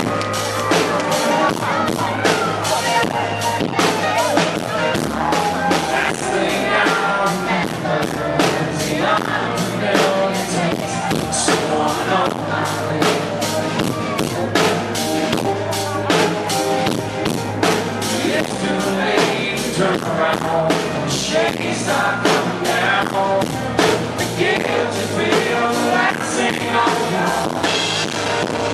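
Live band playing a country-rock song with a steady drum beat and singing, heard through the venue's amplification.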